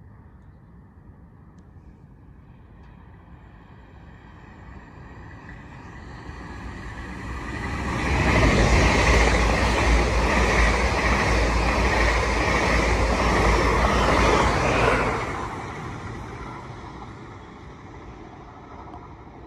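High-speed electric express train passing through the station on the main line: a rumble that swells over a few seconds, stays loud for about seven seconds as the coaches go by, then dies away.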